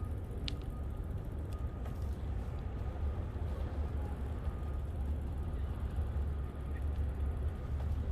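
Steady low rumble of wind buffeting the microphone on a moving bicycle, with a single faint tick about half a second in.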